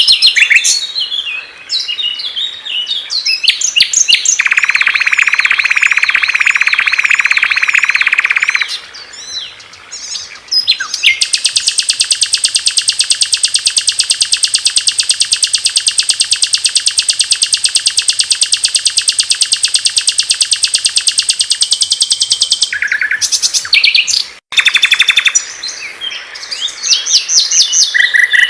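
Recorded songs of several small songbirds, one after another: varied chirps and warbles, a fast lower trill for about four seconds, then a long, very rapid high trill of about ten seconds, with chirping again near the end.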